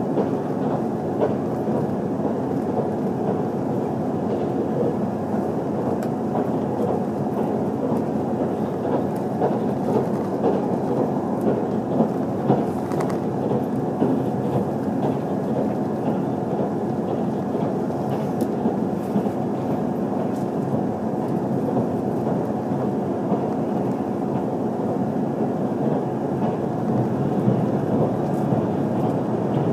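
Cabin running noise of an HC85 hybrid diesel express train at speed: a steady rumble of wheels on rail with a constant hum underneath and a few faint clicks.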